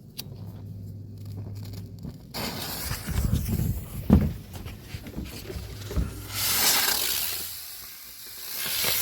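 Small 'crazy bee' flyer firework burning, a hissing rush that swells and fades twice as it spins about, with a couple of sharp thumps in between.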